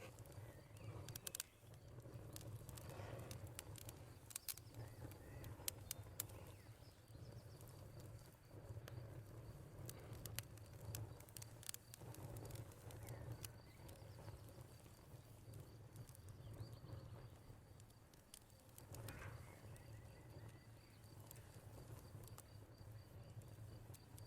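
Wood fire crackling, with many sharp pops over a low steady rumble. A thin, steady high cricket trill and occasional bird calls sound behind it.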